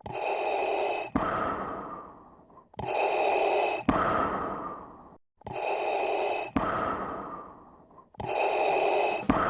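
Four heavy, evenly spaced breaths, about one every two and a half to three seconds, each a harsh one-second draw followed by a fading release; the repeats are so alike that they sound like a looped breathing sound effect.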